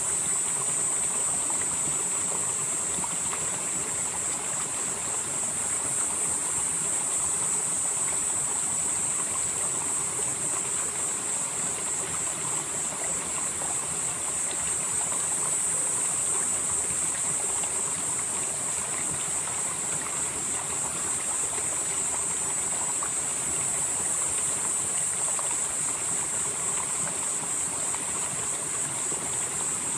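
Valley stream flowing steadily over rocks. Over it runs a constant high-pitched hiss that swells and fades slowly every several seconds.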